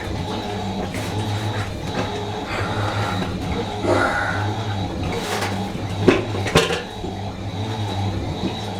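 Fisher & Paykel MW512 washing machine running, a steady low hum with two sharp knocks about six seconds in.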